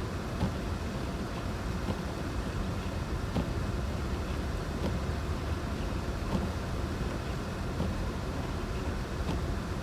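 Steady low rumble of a vehicle on the road, with faint scattered ticks.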